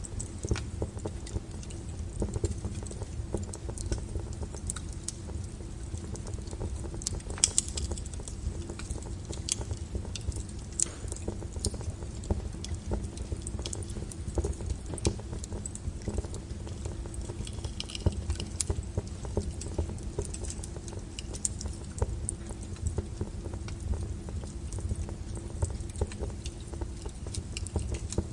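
Wood fire burning: irregular crackles and pops over a steady low rumble, with one sharper pop about seven seconds in.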